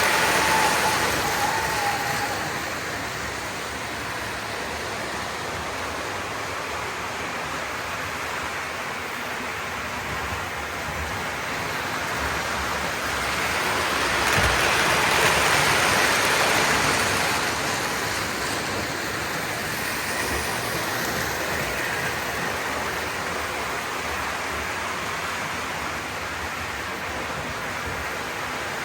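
Lionel O-gauge model train running on the track: a steady rushing rumble of wheels and motor that swells louder about halfway through, as the train passes close, then settles again. A pitched tone fades out about a second in.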